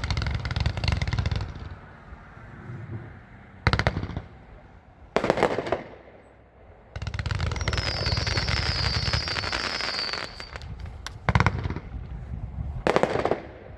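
A 192-shot Off the Charts consumer firework cake firing: spells of rapid crackling broken by single loud bangs about 4, 5, 11 and 13 seconds in. From about 7 to 10 seconds there is a stretch of dense crackle with a faint high whistle that falls slightly.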